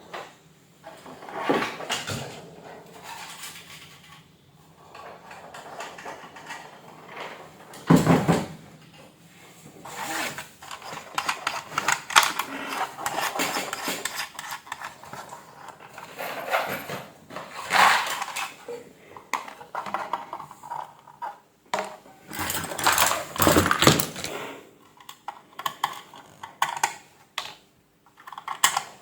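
Tools and small metal parts being handled on a workbench: irregular clinking and clattering, with a few sharper knocks about eight seconds in and again near twenty-three seconds.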